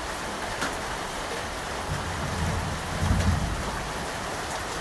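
Steady rain falling, with a low rumble of thunder that builds about two seconds in and peaks around three seconds.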